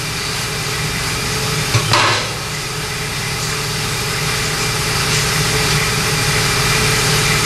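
Steady mechanical hum of running shop machinery, with a single sharp clank about two seconds in.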